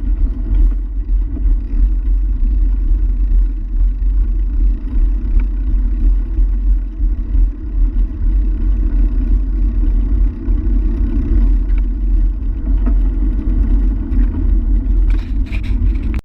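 Steady, loud rumble of wind buffeting the microphone of a moving bicycle ride camera, mixed with the bike's tyre and road noise.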